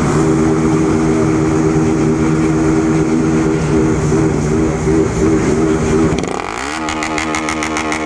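Honda Fan 150's single-cylinder four-stroke engine running through a bare exhaust pipe with no muffler, holding a steady note for about six seconds. The revs then drop and settle lower.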